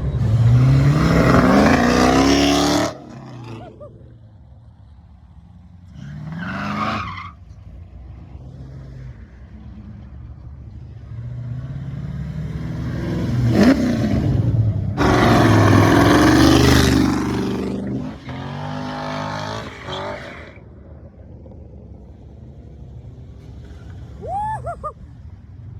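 Muscle-car engines revving hard in several separate loud bursts as the cars pull away. The pitch climbs in the first burst, and the longest, loudest run comes in the middle, with a steady low engine rumble in between.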